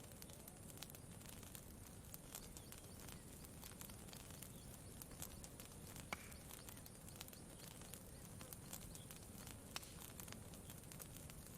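Campfire crackling quietly: scattered sharp ticks and pops over a soft, steady low rush, with a sharper pop about six seconds in and another near ten seconds.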